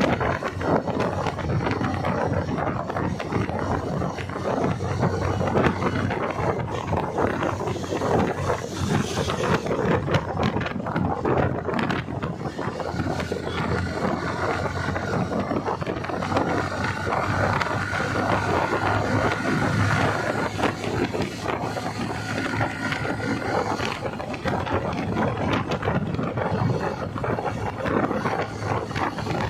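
Steady rushing noise of a motorcycle ride, wind buffeting the microphone over the bike's engine, with a faint high steady tone joining about halfway through.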